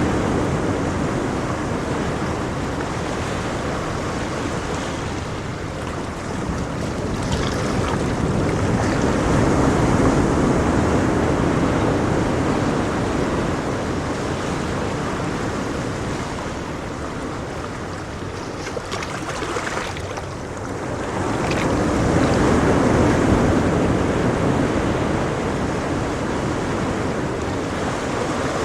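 Ocean waves breaking and washing on the shore, a steady surf noise that swells and ebbs slowly, with louder surges about ten seconds in and again about twenty-three seconds in.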